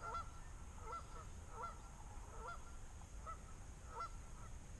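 Canada geese honking repeatedly, a short two-note honk about every second.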